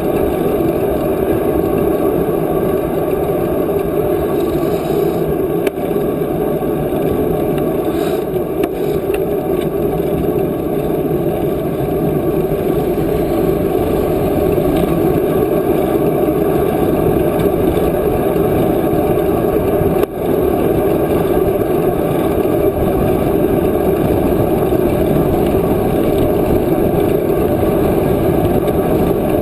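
Steady wind rushing over the microphone of a camera carried on a moving bicycle.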